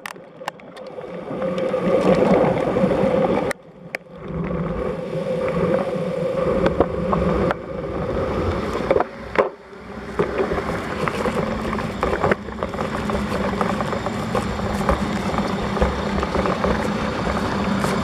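Road traffic noise: motor vehicles running nearby, a steady rumble that drops out briefly a few times.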